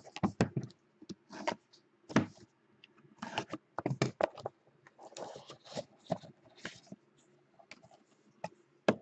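A trading card box and its packaging being opened and handled: irregular clicks and short rustles of cardboard, wrapper and cards, a dozen or so in quick succession.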